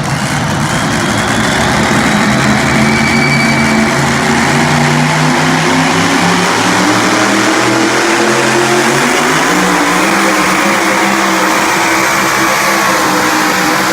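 Pulling tractor's engine running hard at high revs under load during a pull. Its pitch eases slightly lower in the second half.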